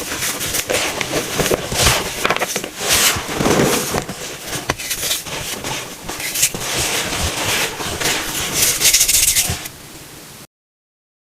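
Pressed baking soda cones being crushed: a dense run of crunching and crackling with many sharp crackles, which drops away near the end and then cuts off.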